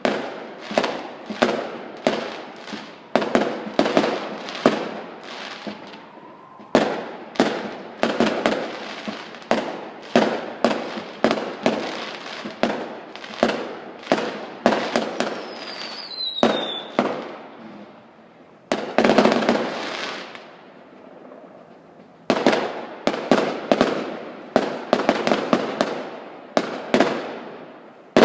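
Fireworks going off in rapid succession, several sharp bangs a second, with a louder dense volley about two-thirds of the way through and a short lull just after it before the bangs resume.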